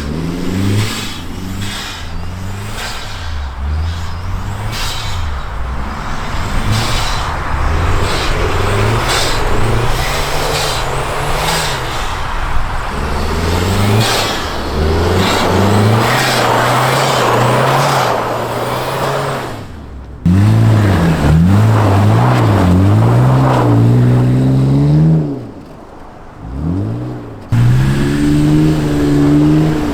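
Turbocharged car engine revved hard again and again, its pitch rising and falling with the throttle, over a steady rush of tyre noise on snow and ice. About two-thirds of the way through it turns louder and holds high revs, drops away briefly, then comes back.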